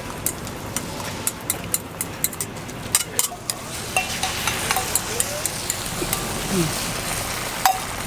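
Food frying on a street-stall griddle: a steady sizzle with many sharp clicks and taps of utensils against the hot plate, thickest in the first half, and one loud click near the end.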